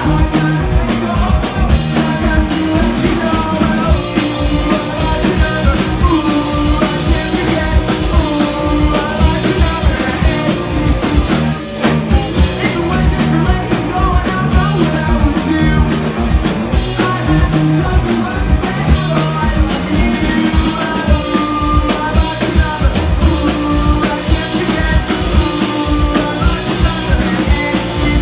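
Live rock band playing loudly, with a steady drum kit beat, guitars and singing.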